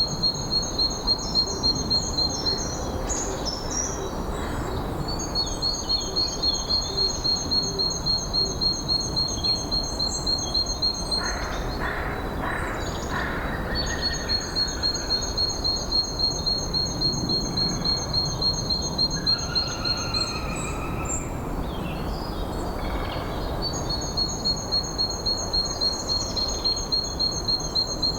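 A songbird repeating one even, high note in long trills of about four notes a second, each trill lasting several seconds, four times over. A few brief, lower calls from other birds come in between, over a steady low rushing background.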